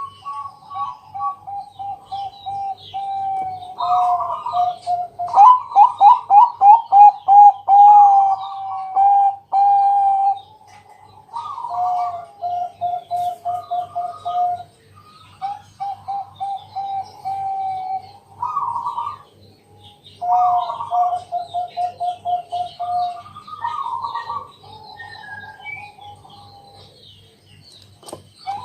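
Zebra dove (perkutut, Bangkok type) cooing. It repeats its song over and over: a few higher notes, then a rapid run of short, evenly spaced coos that ends in a longer held note. Faint higher chirps sound in the background.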